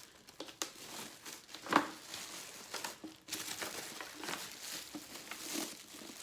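Plastic packaging being handled during an unboxing: crinkling and rustling with scattered light clicks, and one sharper knock a little under two seconds in.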